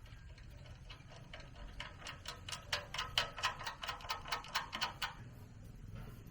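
Rapid, even clicking, about four clicks a second for about three seconds, growing louder and then fading.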